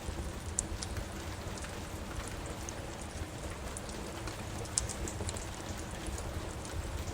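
Steady rain falling, with a low rumble beneath it. A wood fire crackles over it in scattered sharp pops, the loudest about five seconds in.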